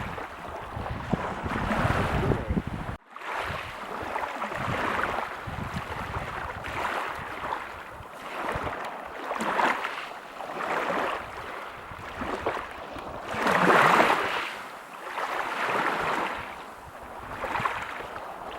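Waves breaking on a beach: surf noise that swells and fades in repeated surges, the loudest near the end, with a brief gap about three seconds in.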